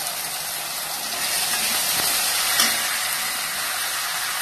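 Chopped carrots and green beans sizzling in hot oil in a kadai with onions and tomato, stirred with a steel ladle. The sizzle grows a little louder about a second in, with one brief louder tap about halfway through.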